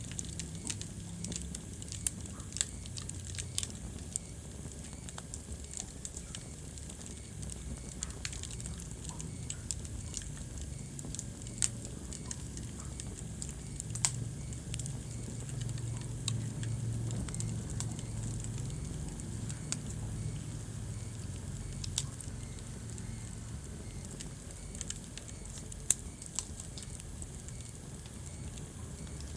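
Wood fire crackling in a fireplace: irregular sharp pops and snaps over a low steady rumble of the flames, with a few louder pops.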